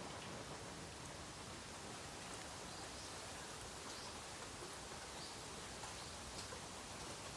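Bamboo fire burning with a steady faint hiss and scattered small crackles.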